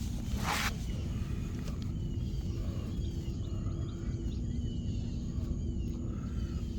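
Birds chirping outdoors over a steady low rumble, with a brief hiss about half a second in.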